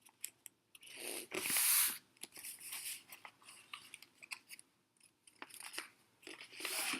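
A sheet of paper being folded and creased by hand: rustling and crinkling with small crackles and taps, and a louder swish of paper about a second and a half in and another near the end.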